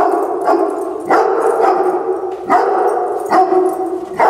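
Dog barking repeatedly, about six loud barks in quick succession.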